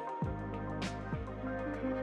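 Background music: a gentle instrumental track with sustained notes and a soft beat.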